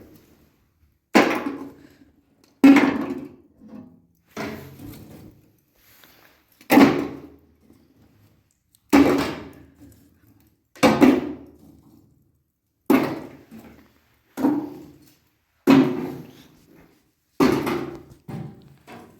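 A series of about eleven heavy blows, one every one and a half to two seconds, each dying away quickly.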